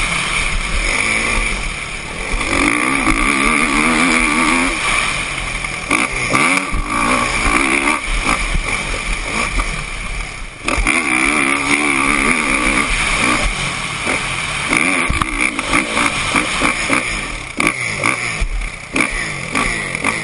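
Kawasaki KX450F motocross bike's four-stroke single-cylinder engine being ridden hard, the engine note rising and falling over and over as the throttle is opened and closed. The sound drops briefly about ten seconds in.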